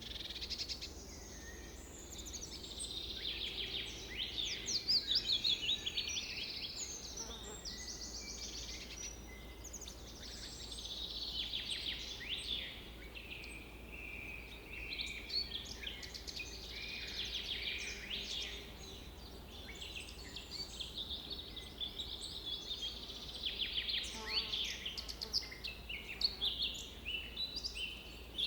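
Several birds singing and calling at once, a dense chorus of quick repeated chirps and trills, over a steady low background rumble.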